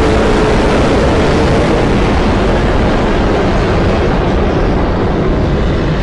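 Custom-made monster roar sound effect: a loud, steady, rumbling roar of dense noise, held for several seconds and starting to fade near the end.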